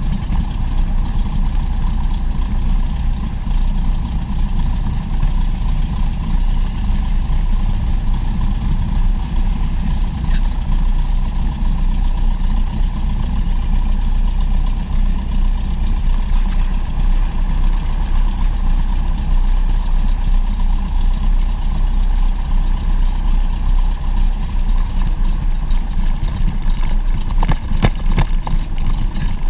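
Propeller aircraft engine heard inside the cabin in flight, a loud steady drone with a constant tone.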